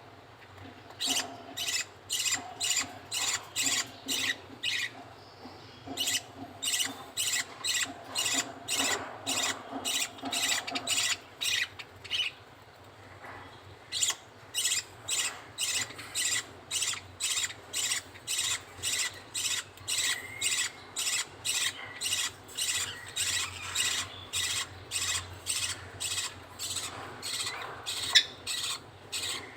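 Budgerigar chick's rhythmic begging calls while being fed by the male budgie: short repeated calls, about two to three a second, with a brief pause a little before the middle.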